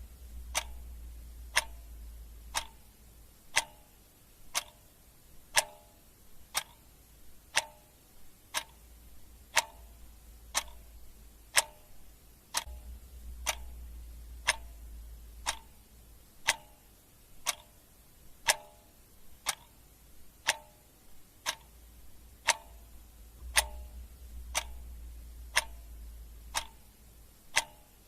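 Clock ticking steadily, about once a second, with a faint low rumble that comes and goes underneath.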